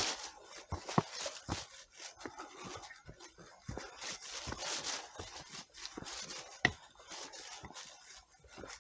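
Footsteps of hikers on a forest trail: irregular scuffs and crunches of shoes on dirt and leaves, with a few sharper knocks, the loudest about a second in and again near the seven-second mark.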